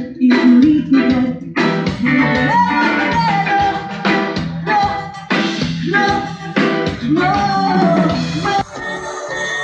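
Live band music: a singer's voice carrying a melody over guitar and a steady drum beat.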